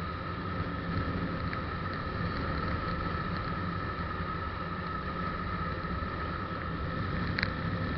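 Motorcycle engine running steadily at a constant speed, with wind and road noise. There is a short click about seven and a half seconds in.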